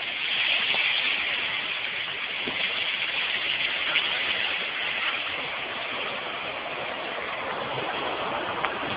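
Steady rush of fast-flowing water from a stream that has washed out a railway bed.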